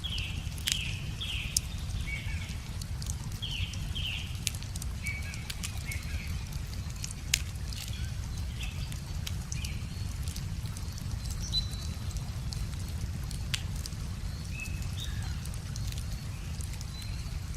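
Wood fire crackling with sharp scattered pops, the loudest about halfway through, over a steady low rumble. Small songbirds chirp in quick runs of short falling notes during the first few seconds and again near the end.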